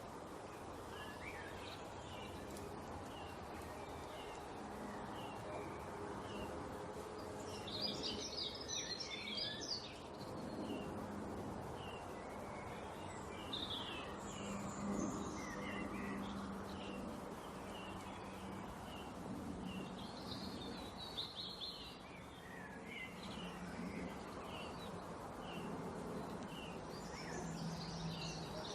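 Small birds chirping: a steady run of short chirps with several louder bursts of rapid twittering, over a faint steady low hum.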